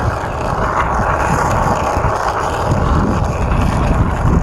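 Wind buffeting the microphone while moving downhill, a steady rushing noise with a low rumble underneath.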